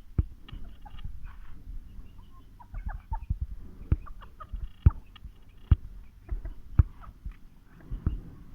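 Aseel chickens clucking in short, scattered calls, broken by several sharp low thumps.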